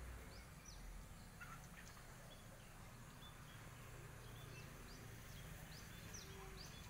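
Faint outdoor ambience: small birds chirping, a string of short, high notes repeating every second or less over a low, steady rumble.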